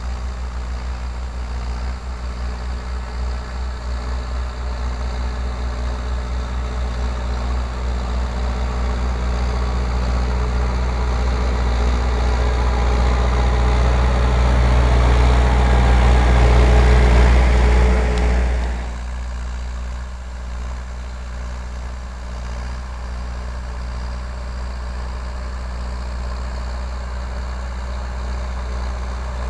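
MTZ (Belarus) tractor's four-cylinder diesel engine running while ploughing, growing steadily louder for about eighteen seconds, then dropping off abruptly to a quieter, steady run.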